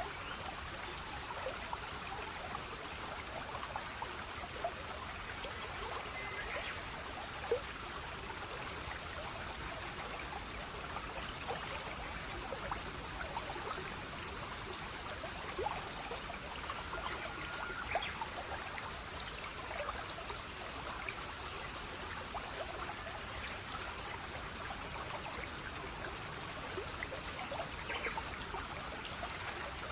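Gently flowing stream: a steady trickle of running water with scattered small drips and splashes.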